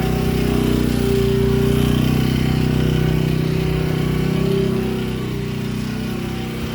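Predator portable generator engine running steadily, and it gets a little quieter about five seconds in.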